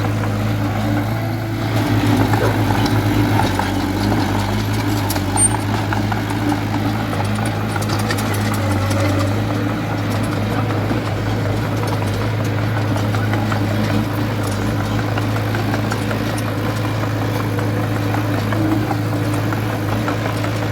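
Heavy diesel earthmoving machinery engine running steadily with a constant low hum, slightly louder for a couple of seconds near the start.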